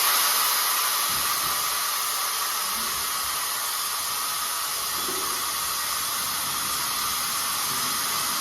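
Steady hiss of air venting from a Direct-Lift air-over-hydraulic motorcycle lift as it is lowered.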